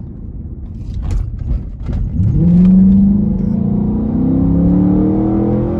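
Dodge Charger R/T's Hemi V8 accelerating hard from a light tap on the throttle, with a Pedal Commander throttle controller fitted. A few clicks over a low rumble at first, then about two seconds in the engine note sweeps sharply upward and keeps climbing steadily.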